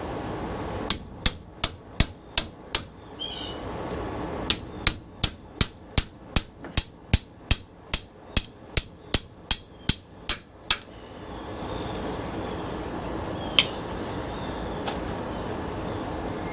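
Hammer striking the metal of a ceiling fan motor being broken down for its copper: six quick, ringing blows, a short pause, then a longer run of about eighteen at about two and a half a second, and one lone blow near the end.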